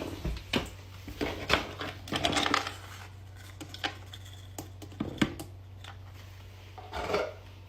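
Hard clinks and clatters, like small metal or ceramic objects being knocked about, with a denser burst of rattling about two seconds in and scattered single clicks after it.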